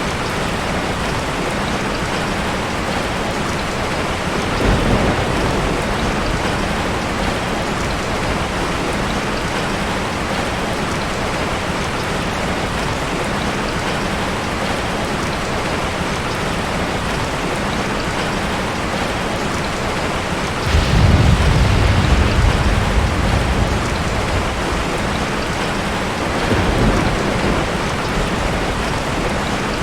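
Steady rain, with low rumbles of thunder rising over it: a short one about five seconds in, the loudest starting suddenly a little past twenty seconds in and lasting a few seconds, and a weaker one near the end.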